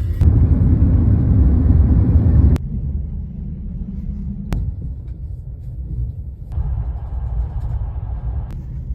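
Low, steady rumble of a moving train, spliced from several short clips, so the sound changes abruptly every two seconds or so; loudest in the first two and a half seconds.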